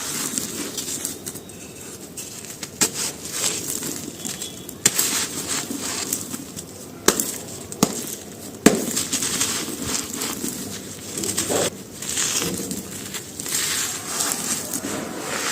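Brittle dry chalky pieces being crushed and crumbled, a continuous gritty crackling and crunching broken by several sharp snaps, the loudest a little before halfway through.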